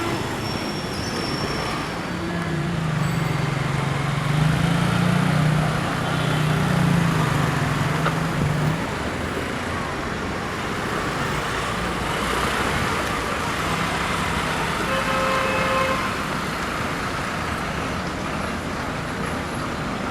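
Road traffic noise of engines and tyres. A heavy vehicle's engine drone stands out from about two to nine seconds in, and short horn toots come later.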